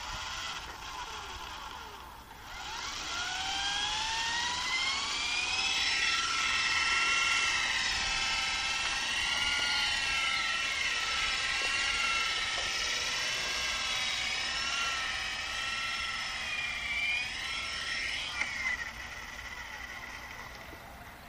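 Esky Honey Bee RC helicopter's electric motor and rotors whining, the pitch wandering up and down as the throttle is worked. The whine spools up after a brief dip about two seconds in and drops away near the end.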